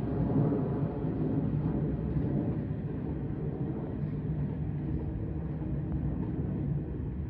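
Low, steady rumble of a departed Nishitetsu 9000 series electric train running away into the distance.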